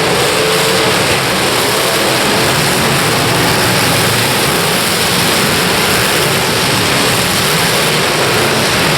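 Demolition derby cars' engines running together in a dense, steady din, with faint engine whines rising and falling at the start and just after the end.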